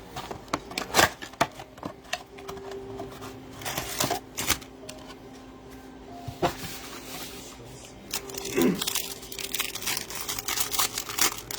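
Trading cards being handled and flipped through by hand: an irregular run of sharp clicks, snaps and rustles of card stock, with some crinkling of foil pack wrappers.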